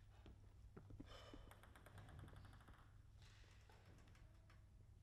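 Near silence: faint arena room tone with a few faint, short ticks.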